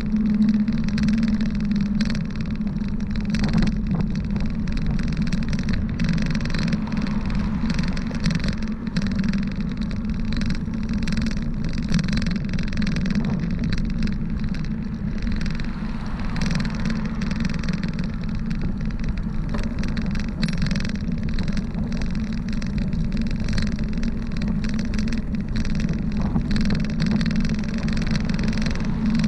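Steady wind rush and road noise from a bicycle rolling along a paved road, with many small knocks from bumps in the surface.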